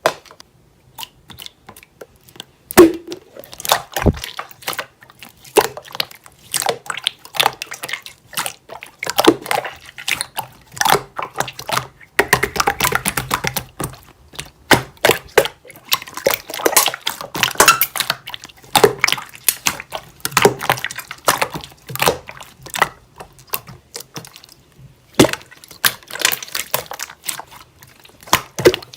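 Slime being squeezed, stretched and pressed by hand, with many sticky wet clicks and small pops and a few louder snaps.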